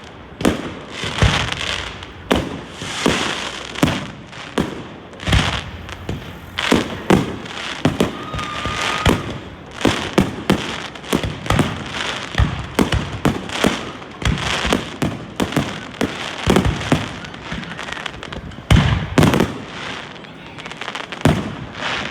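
Fireworks going off: a long, irregular run of sharp bangs, often one or two a second, with crackling between them.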